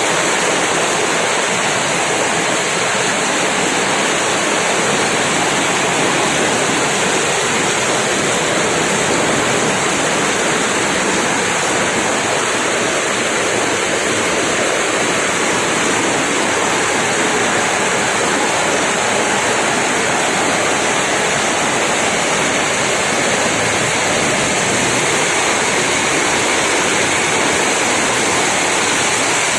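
Heavy tropical rain pouring down steadily, a dense even hiss with no let-up.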